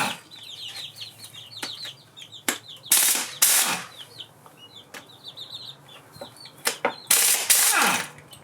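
Pneumatic impact wrench hammering in three short bursts, working seized engine bolts loose. The last burst winds down in a falling pitch. A few sharp clicks of metal on metal come between the bursts.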